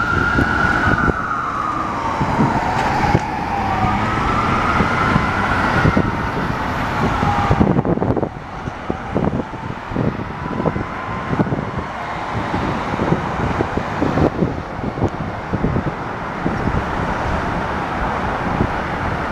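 Fire apparatus sirens wailing, the pitch sliding up and down, then fading out about eight seconds in. Vehicle rumble and road noise carry on after the siren fades.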